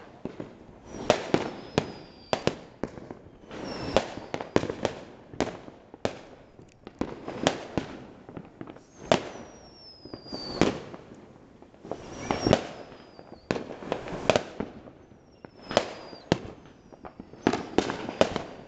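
Fireworks going off in quick, irregular succession: many sharp bangs, some followed by a thin falling whistle.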